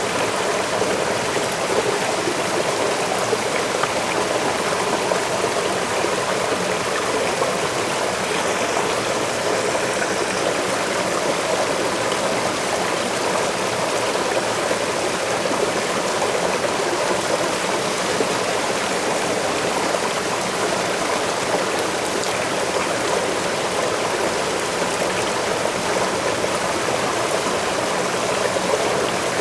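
Waterfall and the stream below it pouring and splashing in a steady, unbroken rush.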